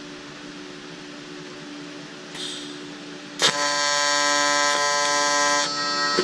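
TIG welding arc struck about three and a half seconds in: a loud, steady buzz for about two seconds that then drops in level, with a brief hiss from the torch just before it.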